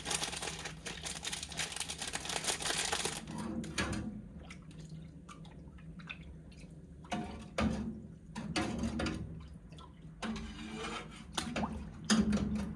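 Water running for about three seconds, then intermittent splashes and light knocks.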